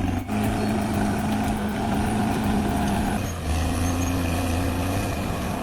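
Caterpillar D6R XL bulldozer's diesel engine running steadily, its tone shifting slightly about three seconds in.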